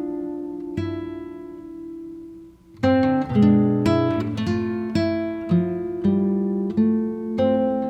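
Background music on acoustic guitar: plucked notes and strummed chords that ring and fade. It almost stops about two and a half seconds in, then goes on with a fresh chord.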